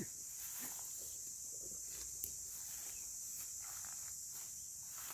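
Steady, high-pitched chirring of an insect chorus, with faint rustling and one small click a little over two seconds in.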